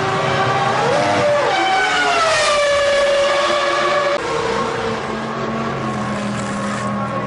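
Formula One cars' 3-litre V10 engines running at high, steady revs, more than one at a time. One engine's pitch slides down between about one and a half and three seconds in, then the engines hold a steady note.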